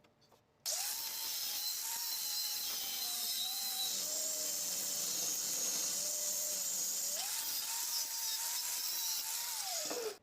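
Electric power tool motor switched on suddenly, running with a high whine and strong hiss. Its pitch sags under load for a few seconds in the middle, then recovers. It is switched off near the end and winds down with a falling whine.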